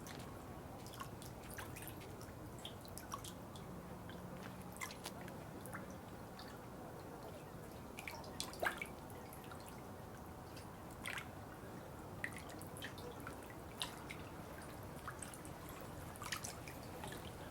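Water dripping: irregular single drops falling every second or so, over a steady low wash of water sound.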